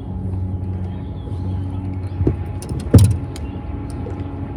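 Steady low motor hum on a fishing boat, with a sharp knock about three seconds in and a few lighter clicks around it.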